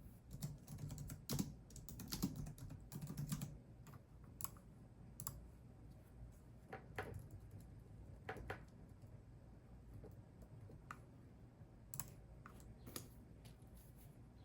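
Typing on a computer keyboard: a quick run of key clicks in the first few seconds, then scattered single keystrokes.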